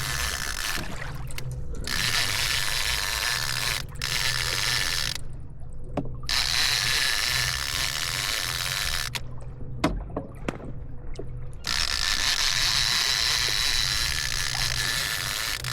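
Fishing reel being cranked, its gears whirring steadily as line is wound in, stopping twice for a second or two with a few clicks in between.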